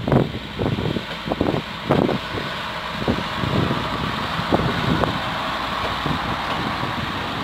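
A vehicle running past, a steady rushing noise, with irregular low thumps through it.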